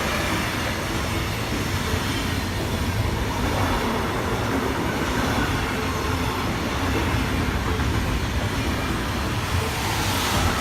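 A train running past, with a steady rumble of wheels on the rails.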